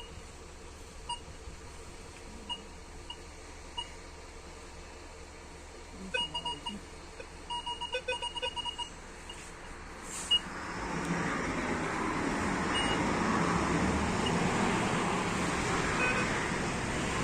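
Metal detector beeping at a target: a few single beeps, then a quick run of beeps. About ten seconds in, a louder steady rushing noise takes over.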